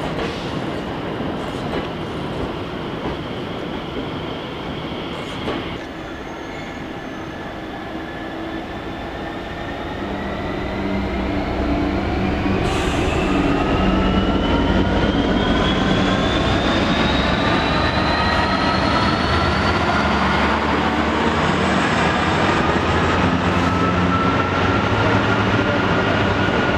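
Train pulling away, its motors giving a whine of several tones that rises steadily in pitch as it gathers speed, with the running noise growing louder from about ten seconds in.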